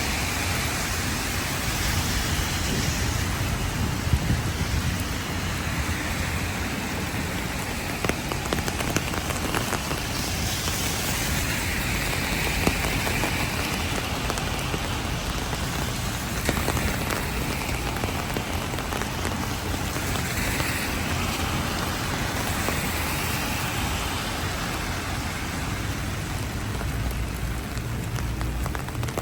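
Heavy rain falling steadily, with a few sharp taps of drops striking close by.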